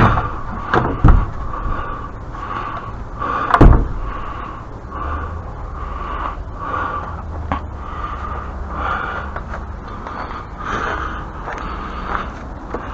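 A few loud knocks and thumps, three sharp ones within the first four seconds, then quieter, over a steady low rumble.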